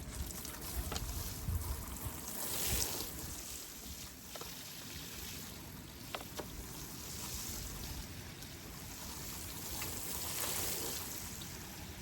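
Wind gusting and rain falling, swelling and easing, with scattered light knocks and taps.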